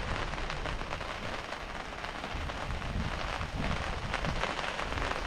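Steady light rain falling: an even hiss of many small drops.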